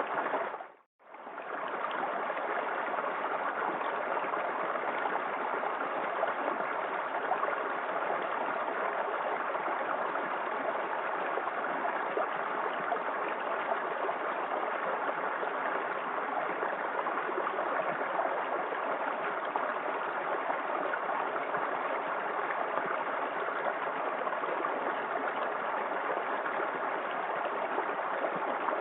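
Small waterfall in a forest creek, water running and splashing steadily. The sound fades out to silence and back in about a second in.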